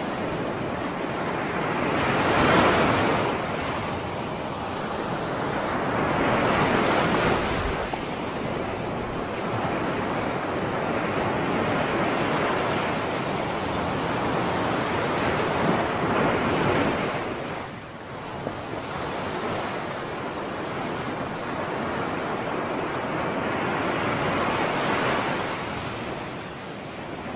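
Sea surf: waves washing onto the shore as a steady hiss, swelling into louder surges several seconds apart, four times.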